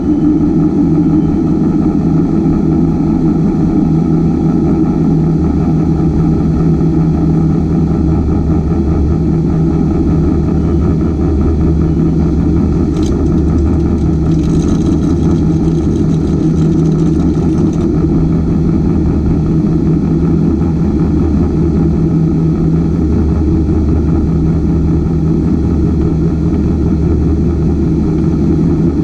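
Ultra4 off-road race car engine idling steadily.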